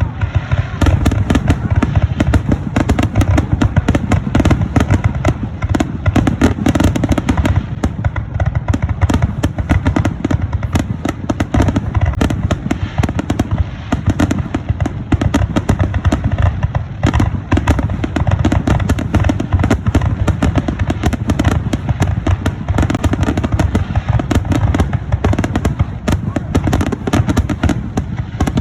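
Fireworks finale: a dense, unbroken barrage of aerial shell bursts, many loud bangs overlapping with no gaps between them.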